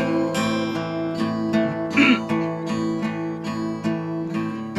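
Acoustic guitar strumming chords in a steady rhythm, an instrumental gap between sung lines of a worship song.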